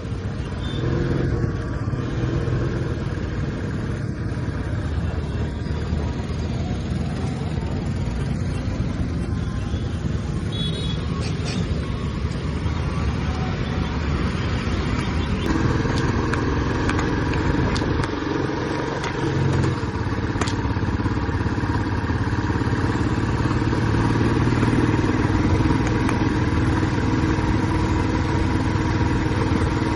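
Royal Enfield Classic 350's single-cylinder engine and exhaust running on the move. The engine note grows stronger about halfway through, dips briefly a few seconds later, then runs on steadily.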